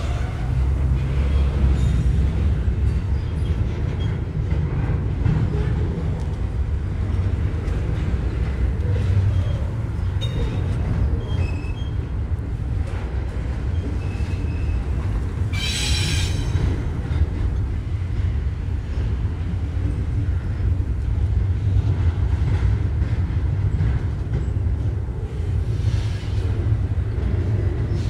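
Freight train rolling past with a steady low rumble of wheels and cars. A brief high screech of wheel squeal comes a little past halfway, and a few faint short squeaks come just before it.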